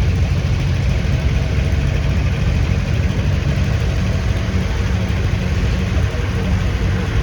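Tractor engine running steadily at low speed, a deep even hum.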